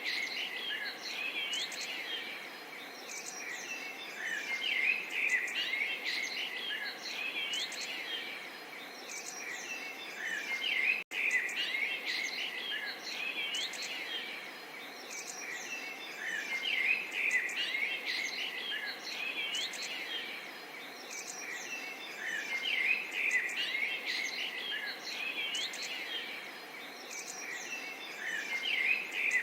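Chorus of small songbirds chirping and singing continuously, many calls overlapping, over a faint steady background hiss. The sound cuts out for an instant about eleven seconds in.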